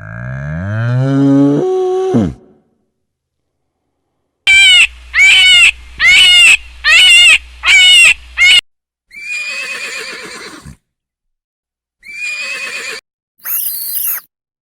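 A series of animal calls: a low call rising in pitch for about two seconds, then after a pause six loud, evenly spaced calls, and near the end three shorter, harsher calls.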